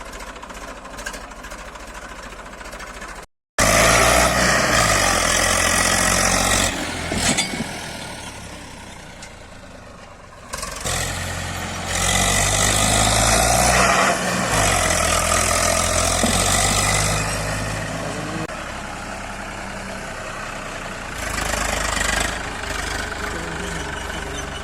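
Tractor diesel engine running under heavy load, revving up and down several times as it strains. It is quieter until a sudden cut about three seconds in, then loud, with surges around the middle and again near the end.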